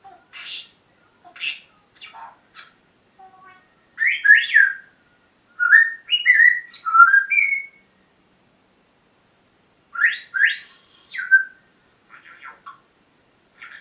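Pet parrot whistling and chattering in bursts of rising and falling whistle-like calls, louder in the middle with a brief pause before another burst.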